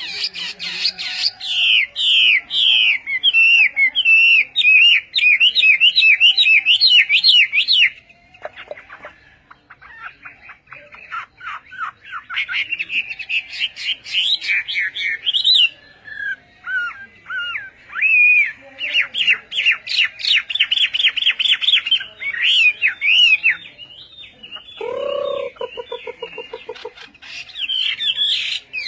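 A songbird singing loud, fast runs of repeated whistled notes in long phrases, with a brief lull about a third of the way in. Near the end a lower, pulsed call cuts in briefly.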